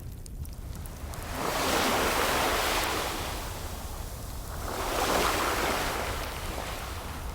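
Ocean waves breaking and washing up the shore in two swells, the first about a second and a half in and the second near five seconds, each rising and then fading, over a steady low rumble of surf.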